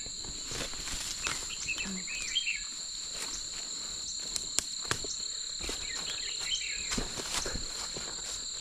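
Insects trilling steadily in a continuous high-pitched drone, with scattered clicks and rustles, like steps through dry vegetation, and a few short chirps.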